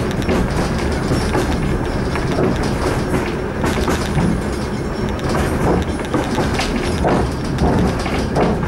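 Suburban passenger train running along the track, heard from inside the carriage: a steady rumble of wheels on rail, with frequent irregular clicks and knocks from the wheels over the track.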